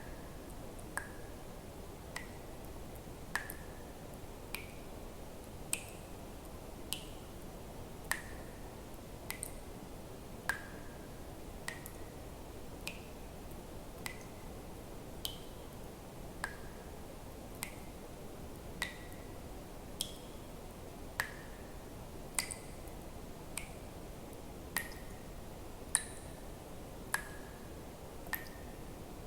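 Water drops falling one at a time into water, a short plink about every 1.2 seconds, each with a brief ringing note that shifts in pitch from drop to drop, over a faint steady hiss.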